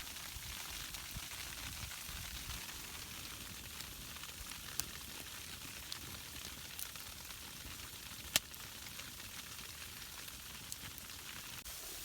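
Steady hiss of falling freezing rain, with a few sharp pops, the loudest about eight seconds in.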